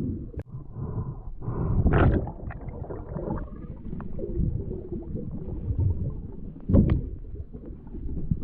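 Water churning and gurgling around a diving camera, a low muffled rumble with uneven surges, the loudest about two seconds in and near the end.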